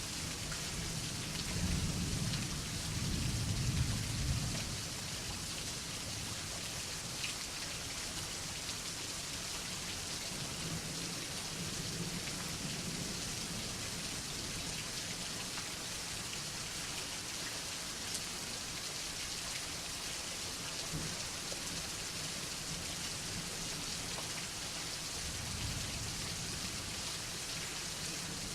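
Steady rain falling, with a low roll of thunder about two seconds in and fainter distant rumbles of thunder later on.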